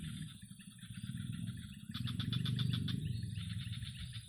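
A bird's rapid trilling calls, fast even pulses repeated in short runs, loudest about two seconds in, over a steady low rumble.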